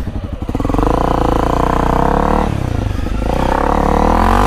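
Honda CRF250L's single-cylinder four-stroke engine revving hard on a trail climb: it pulls for about two seconds, eases off briefly, then revs up again and drops away near the end.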